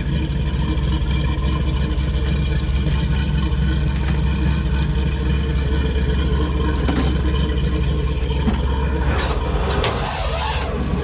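Ford 302 V8 engine in a 1973 Ford Bronco idling steadily. Near the end there is a brief rustling or handling noise.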